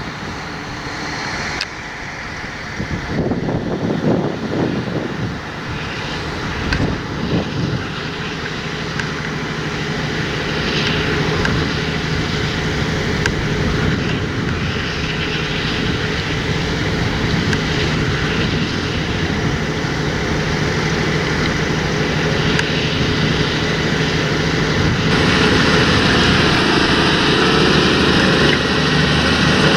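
Large John Deere tractor working a field, its diesel engine running steadily under load and growing louder as it approaches.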